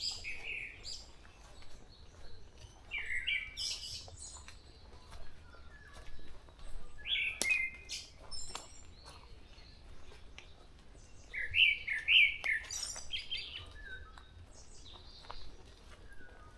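Forest birds singing. One bird repeats a short phrase of two or three quick downslurred notes every few seconds, loudest about twelve seconds in, while others add scattered high chirps.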